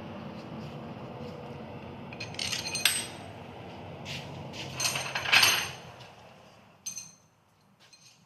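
Metal clinking as steel bolts and washers for a Mazda 13B rotary engine are handled and set in, a few sharp clinks with the loudest about five seconds in. A low steady hum lies underneath and fades out about six seconds in.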